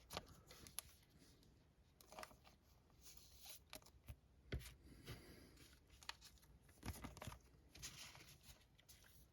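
Faint, scattered rustling and light clicks of trading cards being handled and slid into soft plastic penny sleeves.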